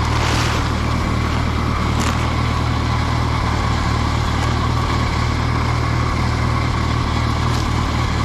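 Allis Chalmers G tractor's small four-cylinder engine running steadily, cold-started after sitting since summer. There are a couple of faint knocks over the engine.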